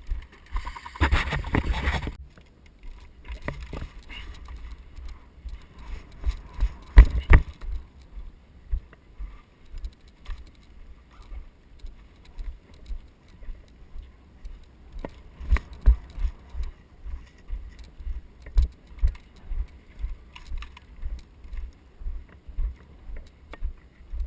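Footsteps at a steady walking pace, with carried gear jangling and rattling. There is a louder rustle of gear about a second in, and a few louder knocks a few seconds later.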